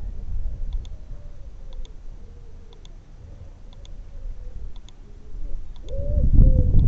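Pigeon cooing in repeated low, curving notes, faint at first and much louder near the end. Faint sharp ticks about once a second and a low rumble of wind on the microphone run underneath.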